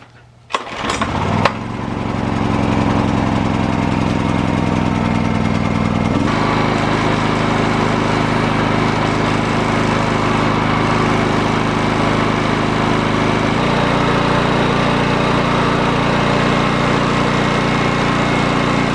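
Honda EX1000 portable generator's small engine starting after a couple of quick sharp sounds in the first second, then running steadily. Its note changes abruptly twice, about six and about thirteen and a half seconds in.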